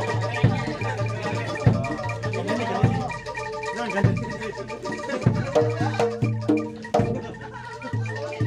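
Javanese gamelan music: repeated deep drum strokes under ringing metallophone notes, with a new run of struck notes coming in about halfway through.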